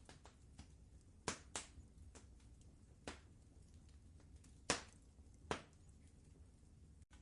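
Wood fire crackling: scattered sharp pops and small ticks over a low, steady rumble, the loudest pop about four and a half seconds in. The sound cuts out for an instant near the end.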